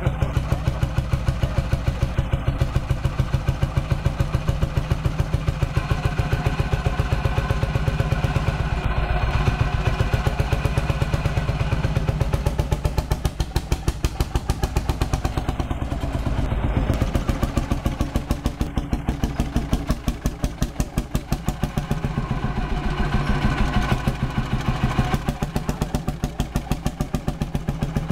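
Vintage tractor diesel engine running at a low idle, its firing beats coming through as an even, regular thumping that swells slightly now and then.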